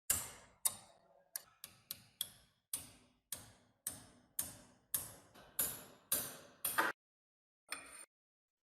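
A run of sharp metallic taps, about two a second, each ringing briefly before dying away, then a short scrape near the end: light tool strikes on a metal part of the rusty fan.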